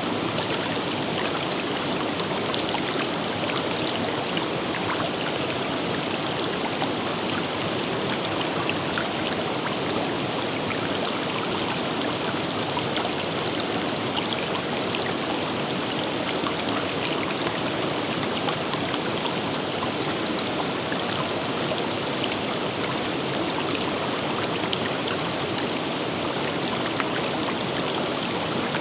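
Shallow river water running steadily over stones, a continuous rushing with small splashes and droplet ticks.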